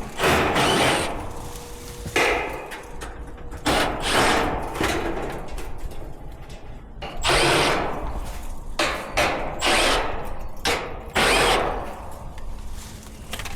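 Power drill run in repeated short bursts of about half a second to a second each, several times over, with pauses in between.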